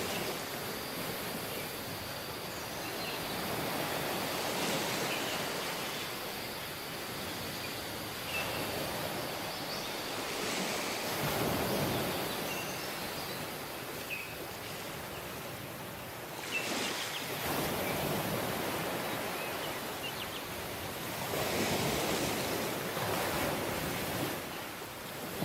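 Waves breaking and washing onto a beach, a steady rush of surf that swells and eases every few seconds, with the biggest surges about four, eleven, seventeen and twenty-two seconds in.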